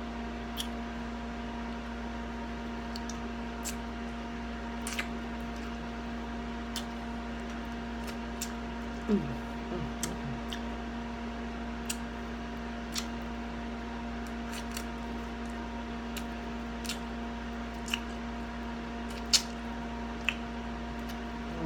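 Close-up eating sounds: wet chewing and mouth smacks with scattered short clicks, a sharper one near the end, over a steady electrical hum.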